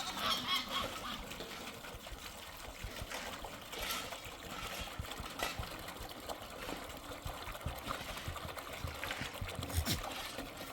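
A steady trickle of liquid, with scattered small clicks and knocks.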